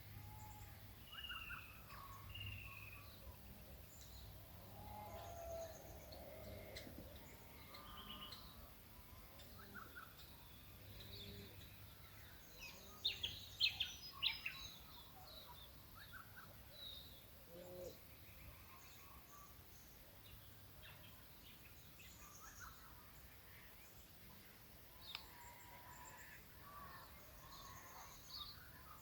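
Several wild birds calling faintly in an early-morning bush chorus: scattered chirps and short whistles, with a louder burst of sharp calls about halfway through.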